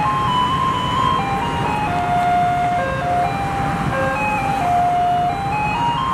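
Taiwanese garbage truck's loudspeaker playing its electronic collection melody, a tune of held notes stepping up and down, signalling that the truck is coming to collect rubbish. The truck's engine runs underneath.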